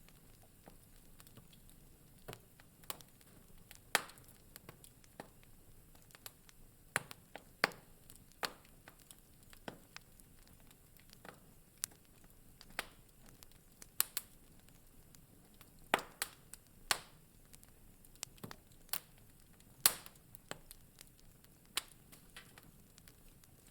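Wood fire crackling in a fireplace: irregular sharp pops and snaps, a handful of them loud, over a faint steady hiss.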